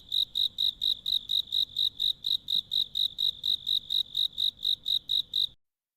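Cricket chirping in a steady, even rhythm of about four chirps a second, which cuts off suddenly near the end.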